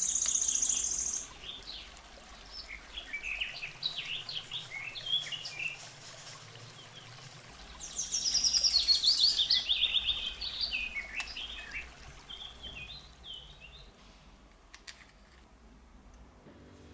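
Birds singing: rapid high trills and chirps, loudest in two spells, at the start and about eight seconds in, thinning out towards the end.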